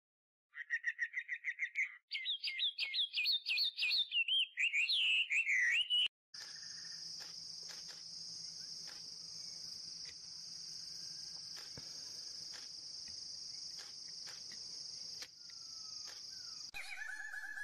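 Birdsong: a run of rapid chirps, then warbling trills, cutting off suddenly about six seconds in. A steady high-pitched drone with faint ticks follows.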